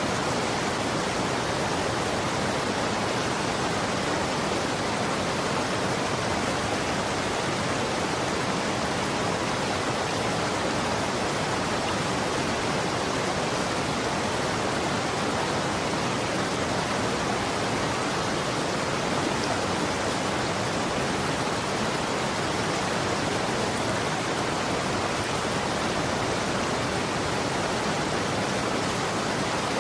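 Running water, a steady, even rush like a stream or small waterfall, with no changes or separate splashes.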